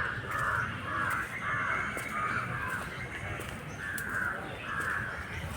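Crows cawing repeatedly: a run of short, harsh caws, a pause of about a second and a half in the middle, then two or three more caws.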